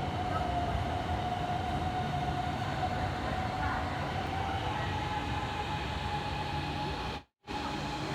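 Hanoi Metro elevated electric train running: a steady rumble with a whine that rises slightly in pitch. The sound drops out briefly about seven seconds in.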